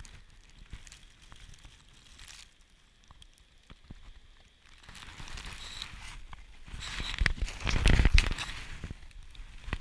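Blizzard wind gusting, building from about halfway through into a strong gust that buffets the microphone with a low rumble, then easing off near the end. Scattered faint crackles come before the gust.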